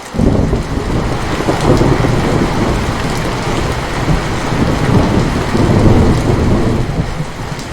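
Steady rain with a deep rolling thunder rumble that comes in suddenly at the start and keeps rumbling throughout.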